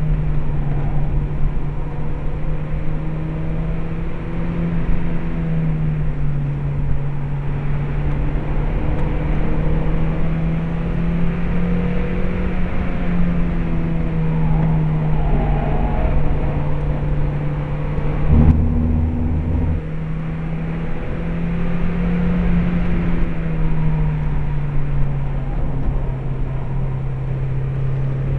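Mazda MX-5's 1.8-litre four-cylinder engine running under load, heard from inside the cabin, its note rising and dropping in steps as the car accelerates, lifts and changes gear. A single sharp knock comes about two-thirds of the way through.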